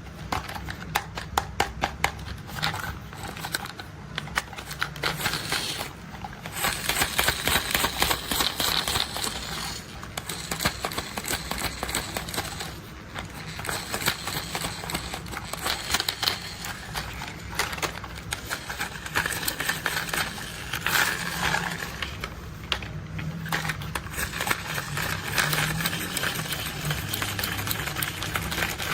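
Rapid clicking and tapping of plastic toy construction vehicles being handled and rolled: a dense run of small ticks with clusters of louder taps.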